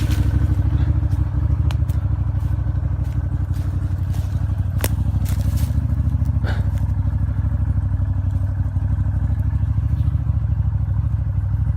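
Off-road side-by-side buggy engine idling steadily, with a few sharp metallic clanks over it.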